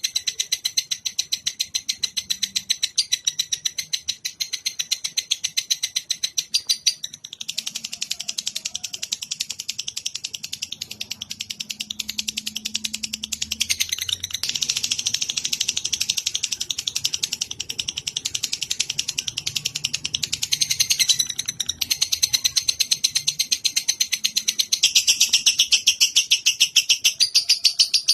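Recorded songbird chirping in long, fast, unbroken chatters of rapid high notes, its phrasing changing every several seconds: a bird-song track played for cage birds to learn from.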